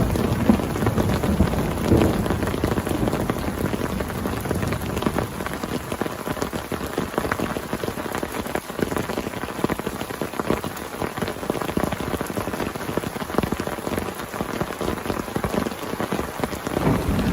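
Heavy rain falling and pattering on surfaces close by, a dense steady crackle of many drops.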